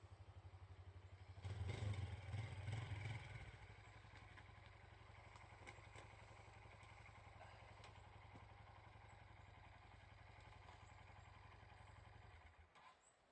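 A vehicle engine running with an even, low throb. It is louder for about two seconds shortly after the start, then runs steadily and cuts out near the end.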